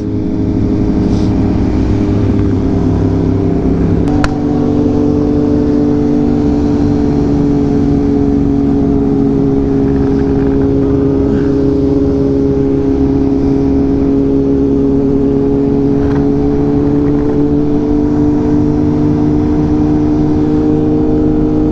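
Sport motorcycle engine running at a steady cruise, heard from the rider's helmet or bike mic with wind noise. The engine note holds steady, with a short click and a slight change in pitch about four seconds in.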